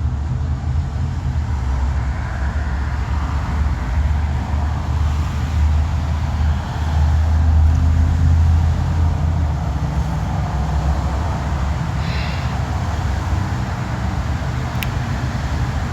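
Steady low rumble of road-vehicle noise, with a single sharp click near the end.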